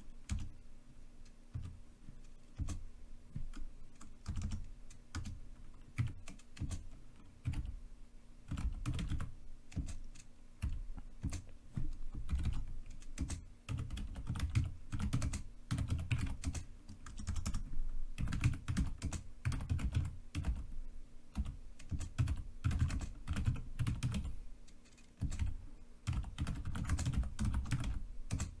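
Computer keyboard being typed on continuously: rapid, irregular key clicks with a deep, thocky low end, coming in runs with short pauses between words and lines.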